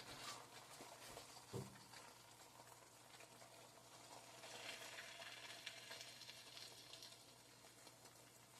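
Near silence, with a faint sizzle of egg frying in a pan that swells a little midway, and one soft knock about a second and a half in.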